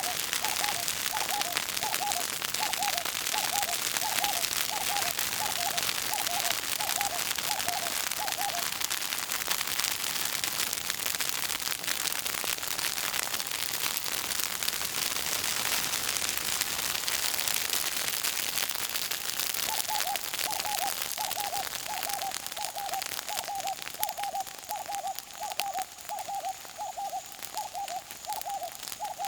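Bush fire crackling steadily in dry vegetation, a dense fizzing crackle. Over it a bird gives a run of short hooting notes, about two a second, which stops after about eight seconds and starts again about twenty seconds in.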